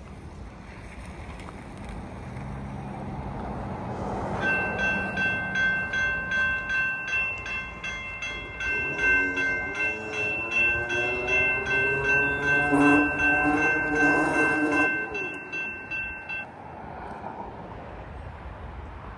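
Railroad crossing bell ringing in a steady, even rhythm from about four seconds in. Over it, an approaching Norfolk Southern diesel locomotive sounds its multi-chime horn for the crossing, loudest near the end before it stops. Engine rumble rises underneath.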